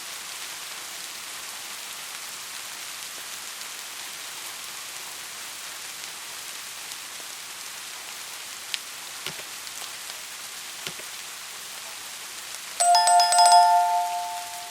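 Steady rain falling in a forest, a continuous hiss with a few scattered drip ticks. About two seconds before the end, a loud ringing sound of two steady tones starts and holds, much louder than the rain.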